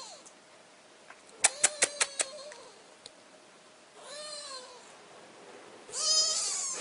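Kittens mewing: high, arching mews, one about four seconds in and a longer, louder one near the end. A quick run of about five sharp clicks comes in between.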